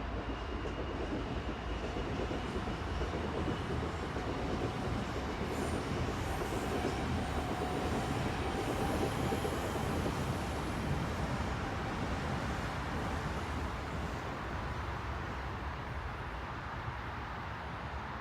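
Steady low rumble and rushing noise of a vehicle in motion, swelling a little in the middle, with faint high-pitched squeals partway through.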